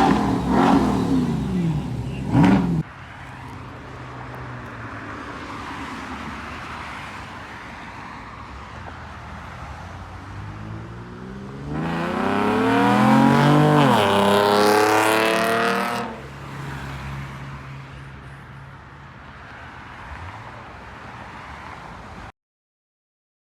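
Car engines revving hard, then cutting off abruptly about three seconds in. Around twelve seconds in, a car engine accelerates loudly, its pitch climbing and then dropping over about four seconds. A quieter background of idling engines and crowd noise follows, ending suddenly near the end.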